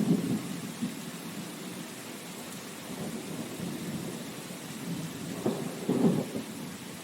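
Steady rain hiss with low rolling rumbles of thunder, swelling at the start and again about five and a half to six seconds in.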